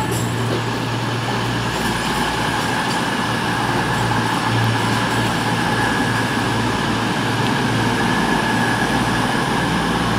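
CrossCountry diesel multiple-unit train moving past close by, its engines giving a steady hum over the rumble of wheels on the track.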